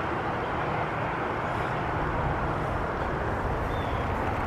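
Steady rushing noise of storm wind and rainwater, with uneven low wind rumble on the microphone.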